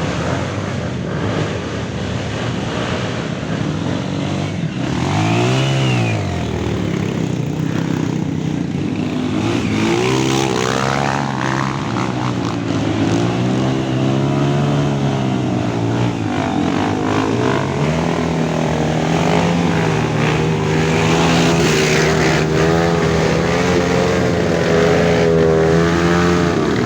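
Off-road dirt bike engines revving as the bikes work through mud, their pitch climbing and dropping. About five seconds in there is a quick rise and fall as one bike is throttled. In the last part one engine holds steady at high revs.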